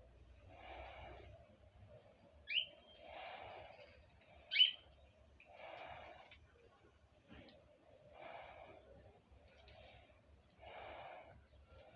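Two short, sharp bird chirps, each sliding quickly down in pitch, about two seconds apart. Under them, a soft rushing sound comes back about every two and a half seconds.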